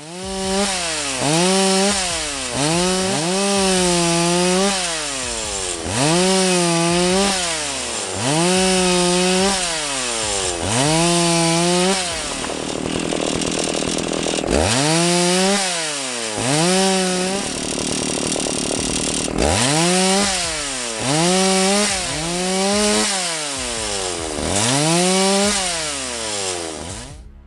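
Two-stroke chainsaw revved again and again, its engine note climbing to full throttle, holding briefly and dropping back about once every second or so. Twice, for a couple of seconds each, the engine note gives way to a steady rasping noise.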